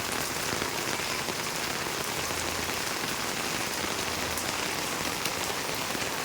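Steady rain falling and pattering on surfaces, an even hiss with the tick of single drops through it.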